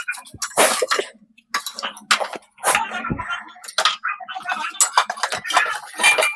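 Kitchen utensils and cookware clattering and clinking in irregular sharp strokes, as in cooking or serving.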